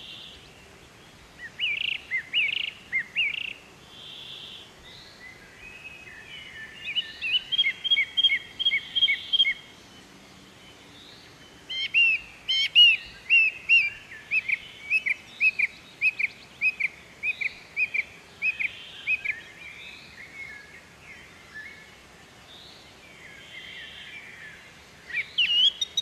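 Birds chirping and calling: runs of short, quick, high chirps repeated several times a second, with other calls in between.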